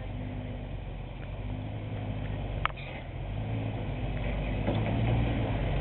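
Jeep engine running steadily and growing louder over the second half, with a single sharp click a little under three seconds in.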